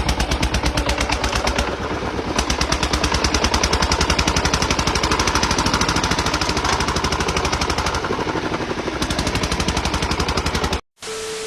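A rapid, evenly spaced string of sharp bangs that keeps up without a break and cuts off abruptly near the end. A short steady beep follows.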